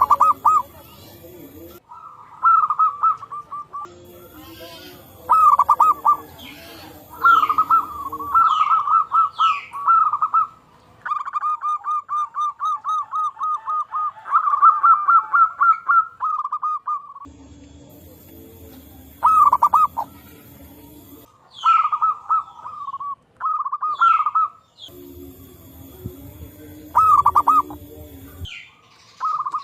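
Zebra doves (perkutut) cooing again and again, each call a rapid, stuttering trill of coo notes, with one long run of quick even pulses in the middle, the birds answering one another. Other small birds give short falling chirps in between, and a background hiss comes and goes.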